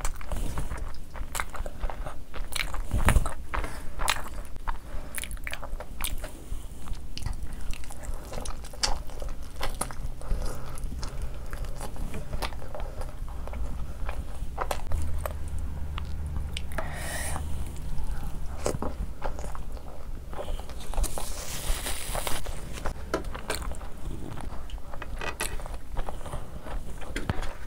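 Close-miked chewing and biting of a mouthful of rice and curry, eaten by hand: an irregular run of short mouth clicks and squelches.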